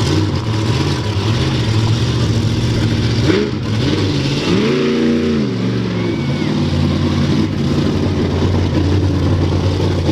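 Monster truck engine running loudly at a steady idle, revved up once and back down about four to five seconds in.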